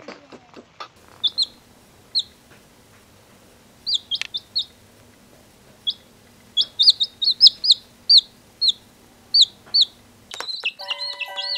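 Short, high bird chirps, scattered singly at first and then in a quick run about seven seconds in, over a faint low hum. Music starts shortly before the end.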